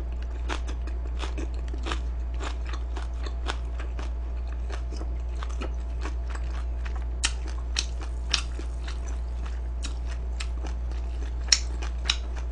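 Close-up chewing and crunching of crisp food in the mouth: irregular crackly bites, a few louder crunches in the second half, over a steady low electrical hum.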